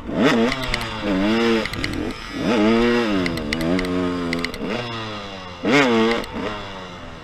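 Dirt bike engine revving up and easing off several times, with the sharpest, loudest rev about six seconds in.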